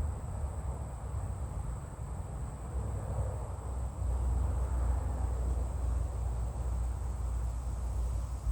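Outdoor ambience: wind rumbling on the microphone, with a faint, steady, high-pitched drone of insects.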